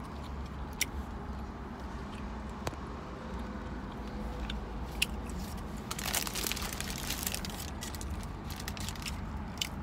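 A man chewing a mouthful of pork belly burger, with scattered wet mouth clicks and a run of crunchy crackling about six to seven seconds in. A steady low hum sits underneath, inside a car cabin.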